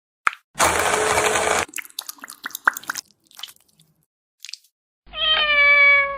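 A cat gives one long, slightly falling meow near the end. Before it come a short burst of hiss and scattered small clicks and crunches.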